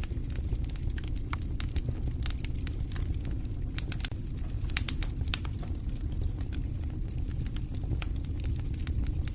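Campfire crackling, with scattered sharp pops and snaps over a low steady rumble; a few louder pops come about halfway through.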